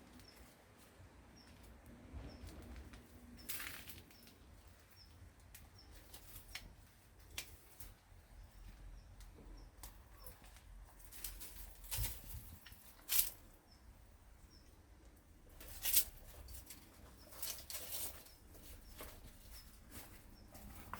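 A bird's wings flapping in short, scattered bursts, about eight times. Faint short high chirps come about once a second.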